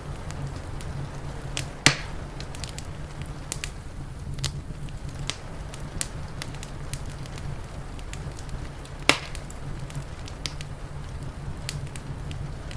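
Wood fire crackling, with many small pops and two louder snaps, about two seconds in and about nine seconds in, over a steady low rumble and a soft hiss of rain.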